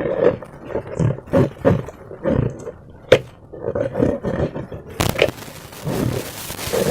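A slime-filled rubber balloon being squeezed and handled: a run of irregular low squelching, rubbery groans, with a sharp snap about three seconds in. About five seconds in, a steady hiss begins under the squelches.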